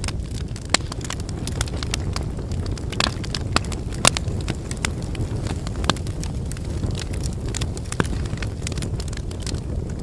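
Wood fire burning: a steady low rush of flame with irregular sharp crackles and pops from the burning firewood, the loudest pop about four seconds in.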